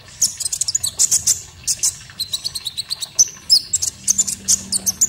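Konin songbird singing a fast, busy string of high chirps and short sweeping notes, several per second: a masteran song recording.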